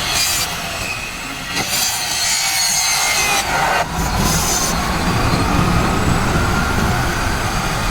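Power tool cutting, in several bursts of harsh noise over a motor's whine. A low rumble comes in about four seconds in.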